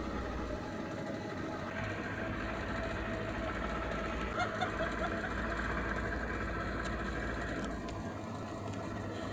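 Speedboat's outboard motor running at a steady speed.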